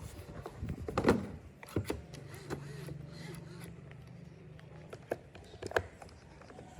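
Tool and parts handling during disassembly: clicks and knocks, a louder knock about a second in. A small electric motor, such as a power screwdriver, hums steadily for about two and a half seconds in the middle.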